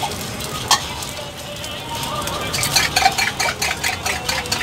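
Paratha frying in oil on a flat iron griddle: a steady sizzle with crackling, spitting pops that thicken in the second half, and one sharp click a little under a second in.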